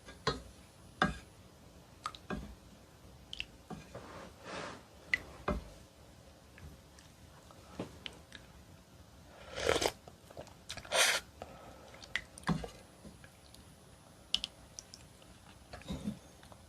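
Close-miked eating of seaweed oyster soup: scattered short clicks and wet chewing and mouth sounds, with two louder, longer noisy sounds about ten and eleven seconds in.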